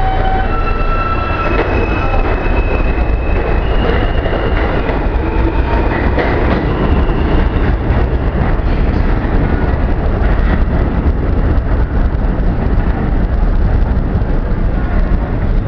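R160A New York City subway train running loudly through the station: a heavy, steady rail rumble, with high-pitched wheel squeal over it during the first several seconds.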